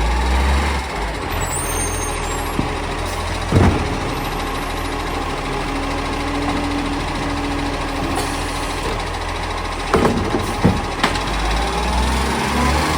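Garbage truck engine running steadily, with a sharp knock about three and a half seconds in and a cluster of knocks around ten to eleven seconds.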